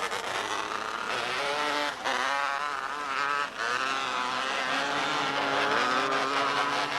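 Several small open-wheel race cars' engines running on the track, their overlapping pitches rising and falling as they accelerate and back off.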